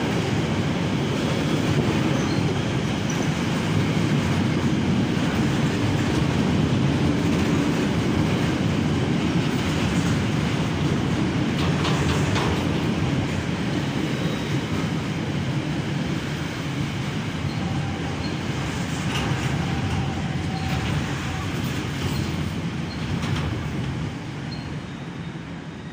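Freight train wagons rolling steadily past at speed: a continuous loud rumble of steel wheels on rail, broken by a few sharp clanks. The rumble eases off a little near the end.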